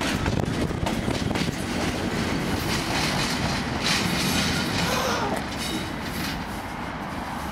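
Class 37 diesel locomotive and test-train coaches passing over pointwork, wheels clattering over the rail joints with the locomotive's engine running, and a faint wheel squeal about five seconds in.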